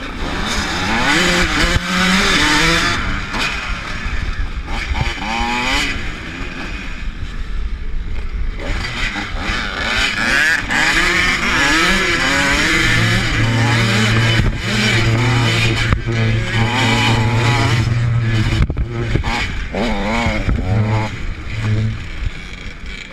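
A pack of supermini motocross bikes, two-stroke KTM among them, revving hard and accelerating. Overlapping engine notes climb and drop again and again as the riders go through the gears and on and off the throttle.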